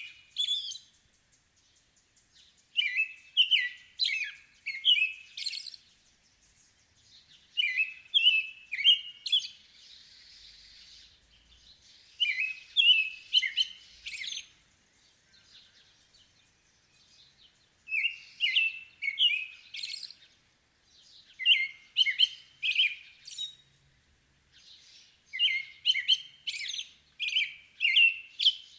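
Songbird singing: the same short phrase of four or five quick down-slurred whistled notes, repeated about every three to four seconds with short pauses between.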